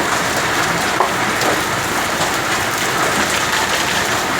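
Rain falling steadily: a dense, even hiss of drops on surfaces, with one sharper knock about a second in.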